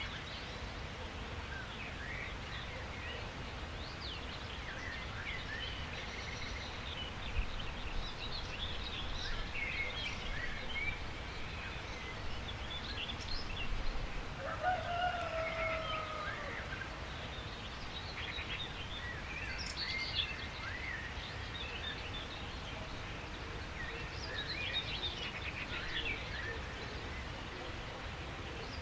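Several birds chirping and calling over a steady low background rumble, with short twittering notes throughout and one longer, lower held call about halfway through.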